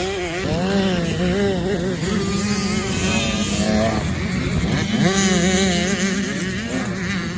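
Motocross bikes running on a track: engine notes rising and falling as the throttle is worked, over a steadier engine drone.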